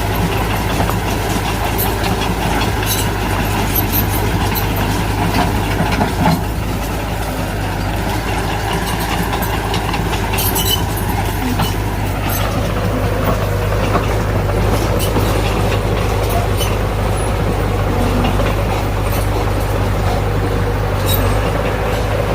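Heavy earthmoving machinery's diesel engine running steadily under work, with a few sharp metal clanks. The engine note drops about twelve seconds in.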